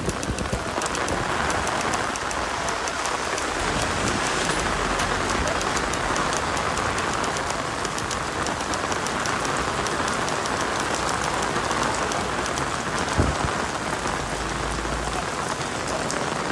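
Steady heavy rain falling, tapping on an umbrella overhead, with one short knock about thirteen seconds in.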